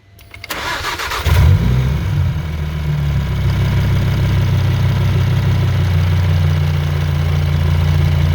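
Freshly rebuilt turbocharged car engine cranked on the starter, catching about a second in with a brief flare, then settling into a steady idle. It is the engine's first start after the rebuild.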